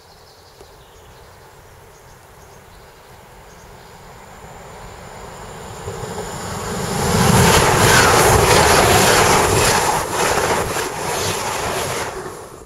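ICE high-speed electric train approaching and passing at speed. The rushing noise swells over several seconds and is loudest for about five seconds as the train goes by, with a quick run of clicks from the wheels on the rails. It stops abruptly near the end.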